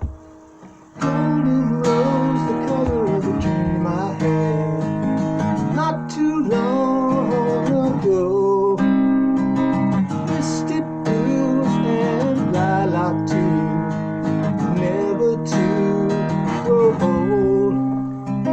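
Acoustic guitar strummed in a song's instrumental introduction, with a wavering melody line above the chords, coming in fully about a second in.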